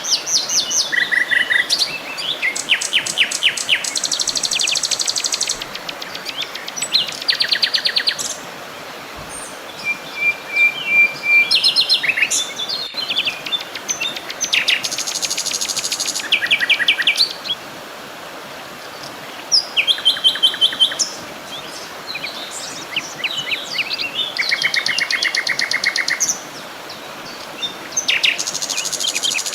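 Several songbirds singing in overlapping phrases: quick trills and chirp series, some high-pitched, a few held on one even pitch, over a faint steady background hiss.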